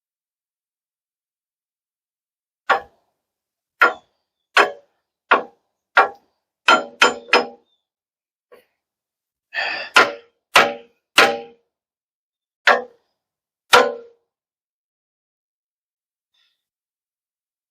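Hammer blows on a steel tractor loader bucket pin, driving it to start it into its bracket hole: about fourteen sharp metal-on-metal clangs with a short ring, in uneven groups, with the quickest run of three coming about seven seconds in.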